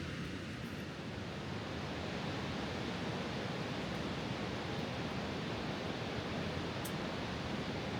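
River water rushing steadily over a stepped, uneven riverbed.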